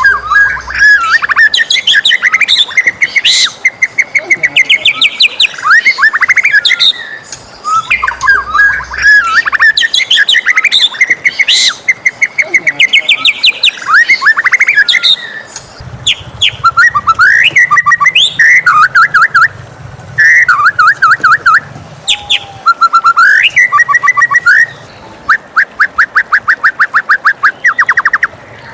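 White-rumped shama (murai batu) singing loudly and without pause: a varied song of whistled phrases, quick chattering trills and rapid repeated notes, ending in a fast even series of notes.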